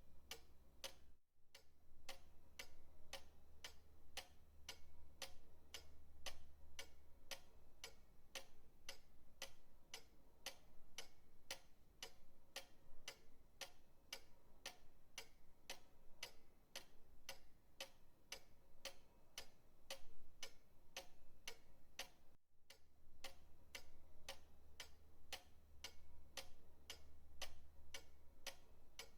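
Pendulum clock ticking steadily, about two ticks a second, faint and even, with two momentary dropouts in the sound.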